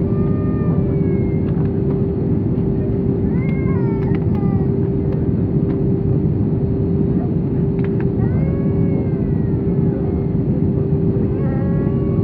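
Airbus A320 cabin noise during descent: the steady rumble of engines and airflow with a steady hum in it. A few times a brief high, wavering cry rises and falls over it.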